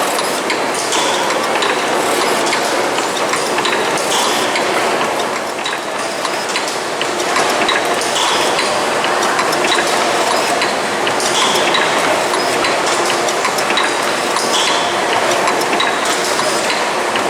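Stationary steam mill engine running, its machinery giving a continuous mechanical clatter and clicking, with a brighter burst recurring about every three seconds.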